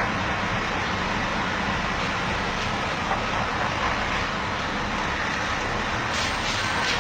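Heavy truck engine running steadily, with a reversing alarm starting to beep near the end.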